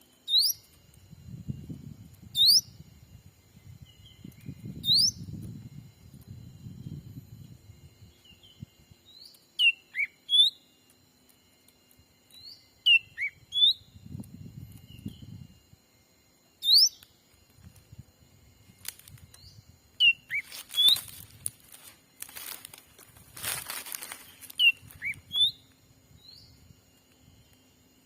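Small bird giving short, sharp chirps, some quickly rising and some falling, repeated in little groups throughout. Low rumbling noise comes through the first several seconds, and bursts of rustling noise come a little past the middle.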